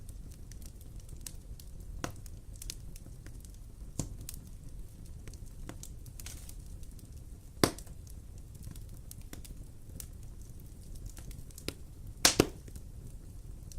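Wood fire burning in a fireplace: a low steady rumble with scattered crackles and sharp pops of the burning logs, the loudest a quick double pop near the end.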